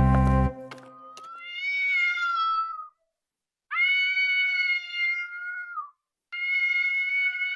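Music stops about half a second in, then a cat gives three long, drawn-out meows with short gaps between them.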